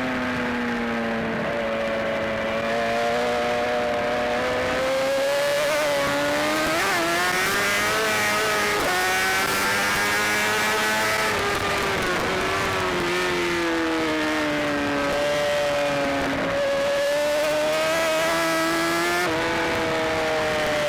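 BMW S1000RR sport bike's inline-four engine running hard at racing speed, its pitch swinging down and up through the revs. There are a few sudden breaks in the note where it shifts gear.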